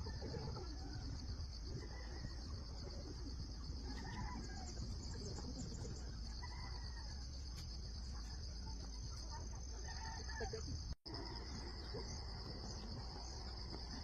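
Steady high-pitched chorus of insects, with a few faint distant animal calls now and then. The sound cuts out for a moment about eleven seconds in.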